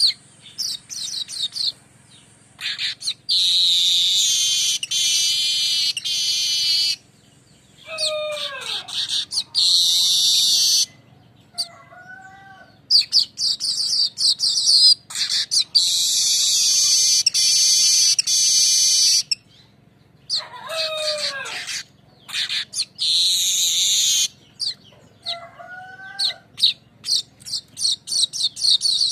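Manyar weaver bird singing its rolling 'ngerol' song. Long, loud buzzy, sizzling trills last several seconds each, broken by quick chips. Twice a lower note slides downward.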